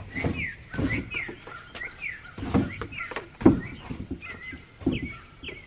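A bird chirping over and over in short falling notes, about two a second, with a few dull thumps and knocks of wicker furniture being handled on a wooden deck, the loudest about halfway through.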